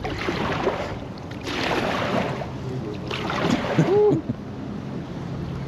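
Water splashing and swishing three times, about a second and a half apart, as a kayak moves down a shallow creek, with a short rising-and-falling tone near the end.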